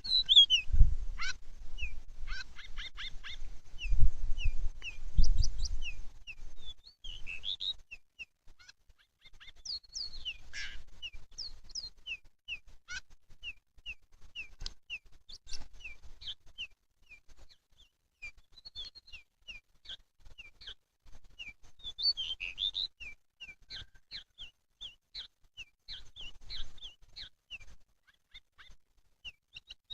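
Pied bushchat (decu) calling and singing: long runs of short, sharp, falling chirps with denser warbled phrases now and then, the sound used as a lure call for this species. Low rumbling thumps come through in the first few seconds.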